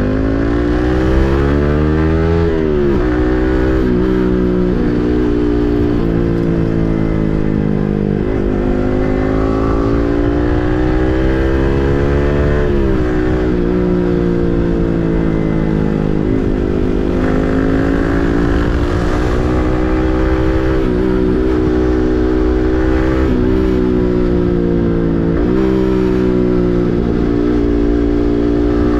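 Yamaha MT-15's 155 cc single-cylinder engine running through an SC Project full-system exhaust while riding: the pitch climbs repeatedly as it accelerates, drops sharply at each gear change, and holds steadier between shifts.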